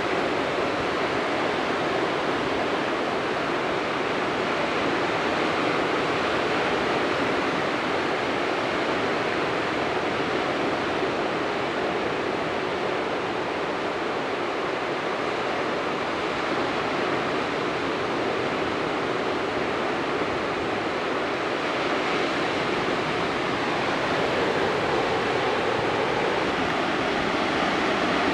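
Steady rushing of moving water, an even noise that holds at a near-constant level with no distinct strokes.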